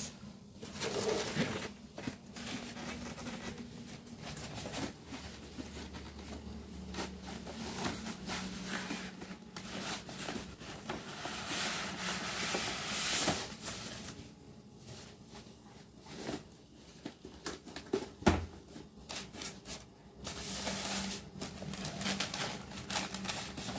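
Rustling and crinkling of packaging and a plastic toy being handled, with scattered small knocks and clicks.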